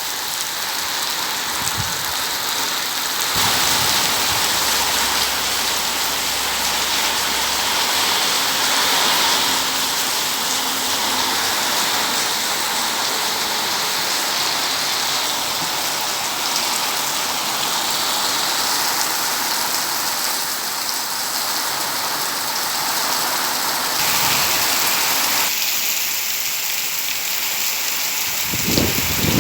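Heavy tropical-storm rain pouring down in a dense, steady hiss, driven by strong wind. The sound shifts abruptly about three seconds in and again near the end.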